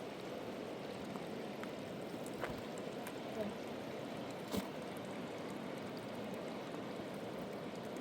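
River water rushing steadily, with two brief knocks about two and a half and four and a half seconds in.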